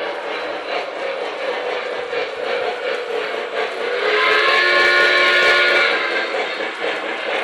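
O gauge model steam train running, with steady chuffing and clicking, and its sound system blowing a steam whistle for about two seconds midway.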